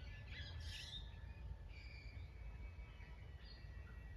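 Wild birds chirping and singing faintly, short calls and one held note, over a steady low outdoor rumble.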